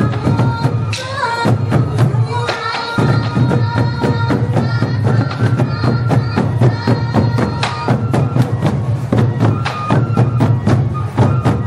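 Traditional temple procession music: drums and fast, dense percussion strokes under a held melody line that shifts in pitch every second or so.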